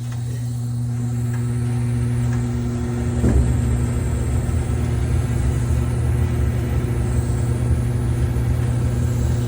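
A 1978 gas furnace running with a steady low hum from its burner and blower. The hum swells a little over the first couple of seconds, and there is one brief knock about three seconds in.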